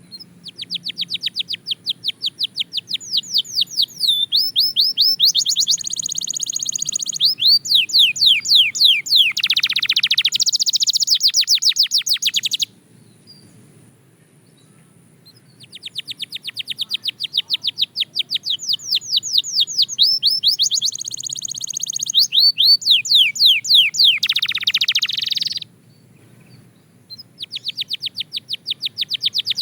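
Belgian canary singing in three long bouts of rapid repeated notes and trills, broken by pauses of a couple of seconds. The second bout starts about halfway through and the third near the end.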